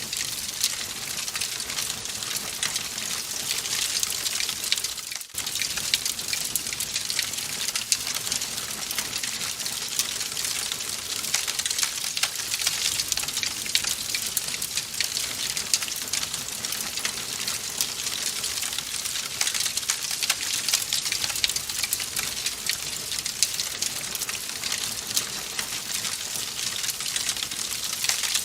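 Wood fire in a fireplace crackling steadily: a dense hiss full of small quick pops and snaps, with a momentary dip about five seconds in.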